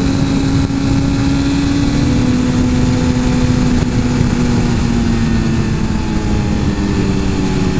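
Suzuki GSX-R 1000 inline-four engine running under way, its note sinking slowly as the revs ease off, over a steady rush of wind noise.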